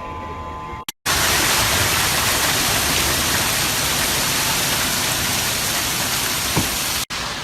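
Heavy rain falling as a loud, steady hiss. It starts abruptly about a second in, after a brief quieter stretch with a faint hum, and cuts off suddenly near the end.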